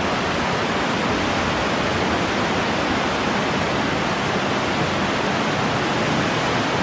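The Fier river rushing through its narrow rock gorge: a loud, steady roar of white water.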